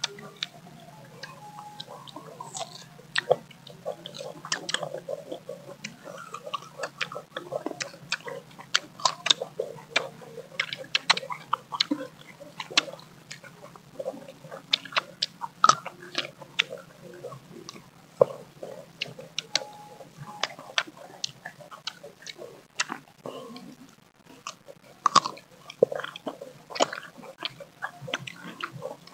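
Several people biting and chewing mango slices close to the microphone, an irregular run of sharp, wet crunches and mouth clicks.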